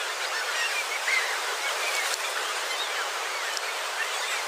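Steady wash of breaking sea surf, with many faint short rising-and-falling calls scattered over it.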